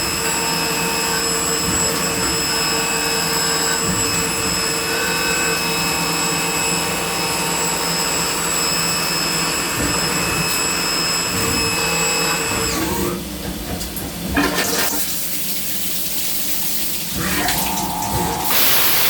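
Biglia 565 YS CNC turn-mill centre milling with a driven live tool: a steady high whine from the spindle and cutter over the hiss and splash of coolant. About 13 seconds in, the whine stops, leaving uneven coolant spray and a loud hiss near the end.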